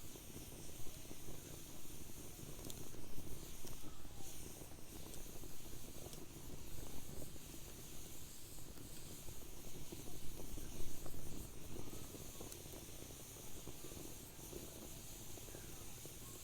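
Wood fire burning in a fire pit, hissing steadily with frequent small irregular crackles and pops.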